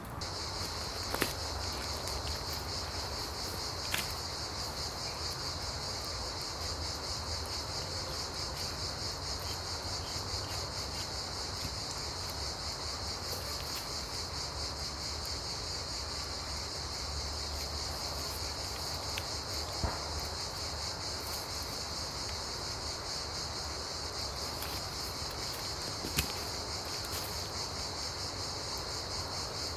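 A steady, finely pulsing chorus of insects chirping, typical of crickets, with a few sharp clicks standing out now and then.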